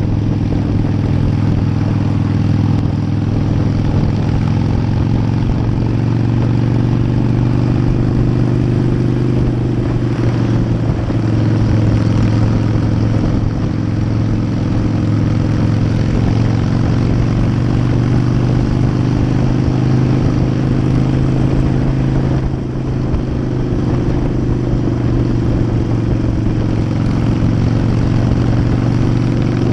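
Harley-Davidson air-cooled V-twin motorcycle engine running steadily at cruising speed, its pitch drifting gently up and down, over road noise.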